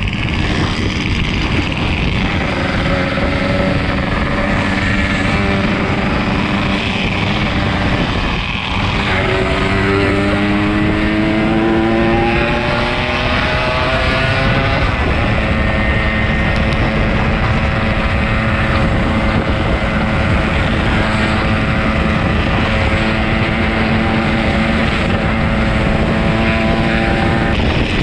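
Yamaha RX-King 135's two-stroke single-cylinder engine running under way, over a steady rushing noise. Its note dips briefly about a third of the way in, then rises steadily for about five seconds as it accelerates, then holds a steady pitch.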